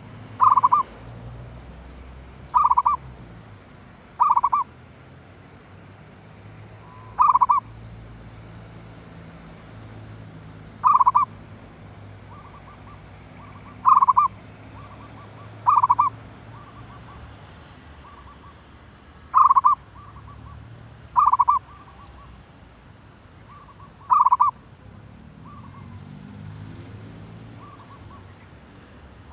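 Zebra doves cooing: about eleven short, loud calls spaced every two to four seconds, with fainter calls in between.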